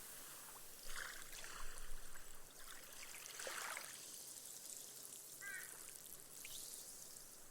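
Small, gentle waves washing up on a sandy beach, fizzing and trickling as the water soaks into the sand and the foam bursts, with two soft splashes. A brief faint chirp comes about halfway through.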